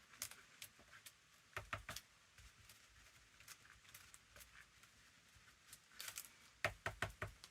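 Quiet tabletop crafting sounds: small clicks and taps of tools and paper being handled while a thin coat is worked onto a journal cover, in a short cluster about a second and a half in and a louder one near the end.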